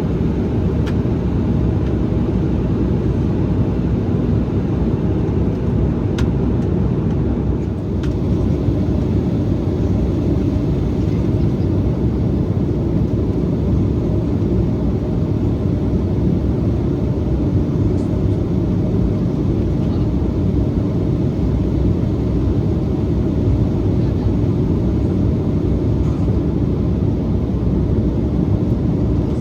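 Steady low cabin drone of an Embraer 175 regional airliner in flight: engine and airflow noise heard from inside the passenger cabin. A few faint clicks sound over it.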